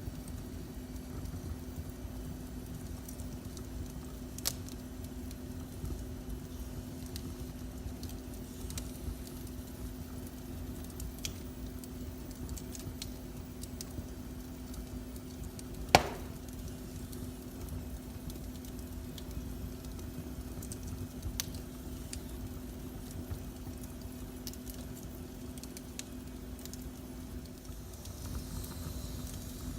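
Wood fire in a fireplace crackling, with scattered small pops and one sharp, loud pop about halfway through, over a steady low hum.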